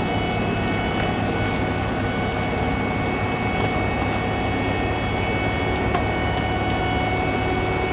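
Heavy diesel paving equipment running steadily, with a constant low engine rumble and a steady whine over it, plus a few faint clicks.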